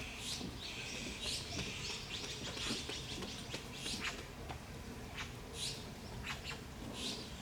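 Meerkats giving a run of short, high-pitched chirps and peeps, coming thick and irregular for the first few seconds and then more sparsely.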